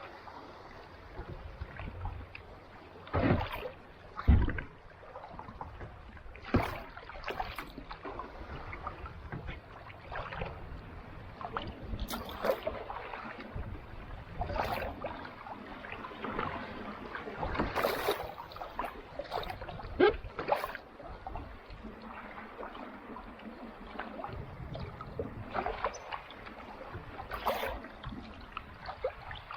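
Kayak paddle strokes on calm sea water: the blade dips and splashes about every two to three seconds, irregularly spaced, over a steady wash of water.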